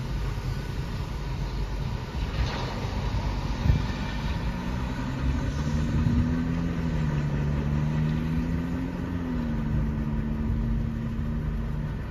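Motor vehicle engine idling: a low hum that wavers a little in pitch, with street traffic. A single short knock comes a little under four seconds in.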